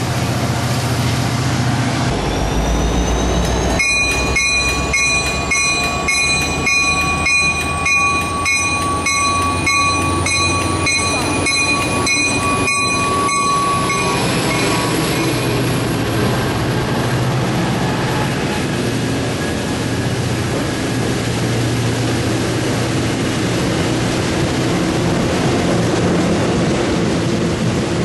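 Train passing with a continuous rumble. From about four seconds in until about fourteen seconds, a high-pitched ringing of several tones sounds, pulsing about once or twice a second, then cuts off suddenly.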